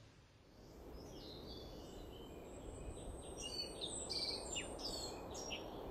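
Small birds chirping in short, quick calls that start about a second in, over a faint steady hiss.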